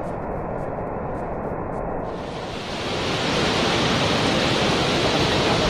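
Steady rush of falling water. About two seconds in it changes abruptly to a brighter, fuller rush that grows louder.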